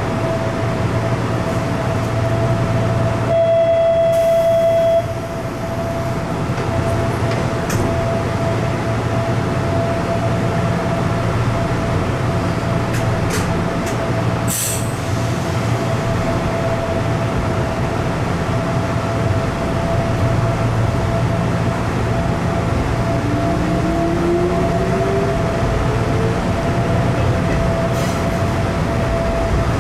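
Hanshin Railway 7861-series 'Akadō' train heard from the driver's cab: steady running rumble with a constant hum. About three seconds in, a buzzer sounds for about a second and a half and cuts off suddenly. Near the end a whine rises in pitch.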